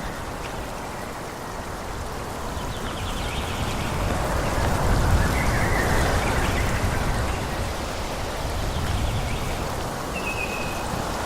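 Wind rushing through forest trees, a steady noise that swells and eases in gusts, with a low rumble. A faint brief high chirp comes near the end.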